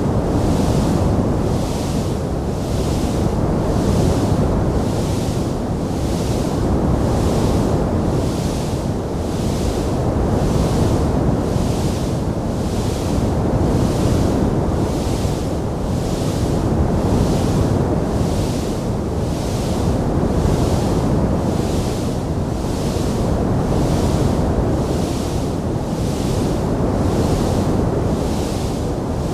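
Steady low roar of a wood fire burning in a fireplace, swelling and easing every few seconds, with no distinct crackles or pops.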